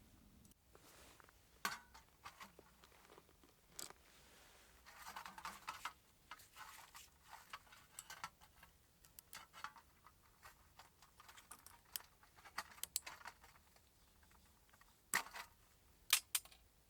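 Small parts and tools being handled: scattered light clicks and clinks, with a stretch of rustling about five seconds in and two sharp clicks near the end.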